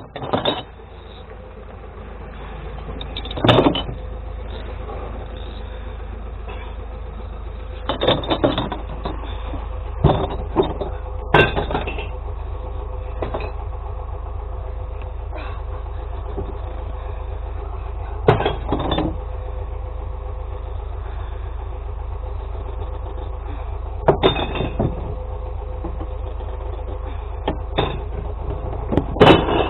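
Glass-recycling truck's engine running steadily with a low rumble and a steady hum. About ten sharp clanks and knocks come every few seconds, with a cluster near the end.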